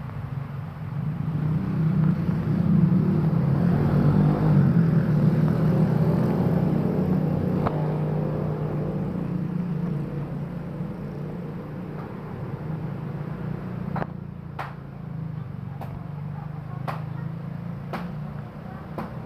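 Motorcycle engine running steadily. It gets louder about two seconds in, eases off after the middle, and several sharp clicks come near the end.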